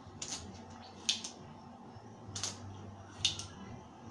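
A few short, sharp clicks of small hand tools working on the TV's circuit board while the optocoupler is being taken out, over a faint low hum.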